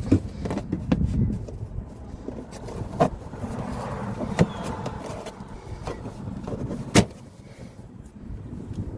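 Scattered knocks and clicks of handling at a car, over a steady low rumble; the sharpest knock comes about seven seconds in.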